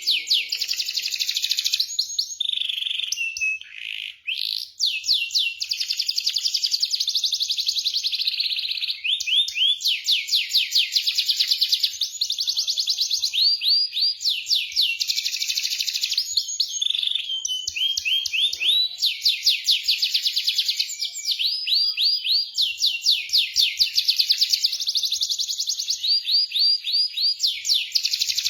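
Domestic canary singing a continuous song of fast, high-pitched trills: long rolls of rapidly repeated notes, changing from one trill to the next, with a short break about four seconds in.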